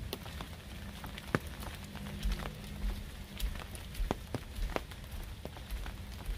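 Raindrops striking the van's roof: scattered, irregular sharp taps over a low steady hum.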